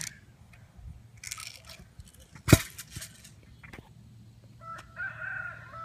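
Short rustling handling noises and a single sharp thump about two and a half seconds in. Near the end a steady high tone with a few overtones starts.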